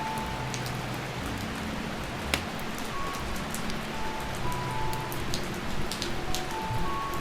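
Steady heavy rain on a tin roof with scattered sharp ticks, under soft background music of short held notes.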